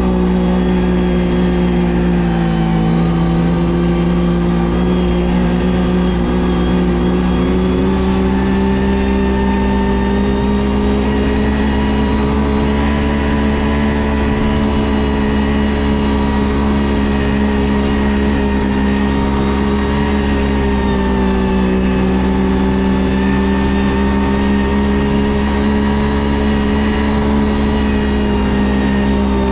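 Ski-Doo GSX 600 HO snowmobile's two-stroke twin engine running steadily under way on the trail. Its pitch dips slightly a couple of seconds in and again about two-thirds of the way through, and climbs a little in between.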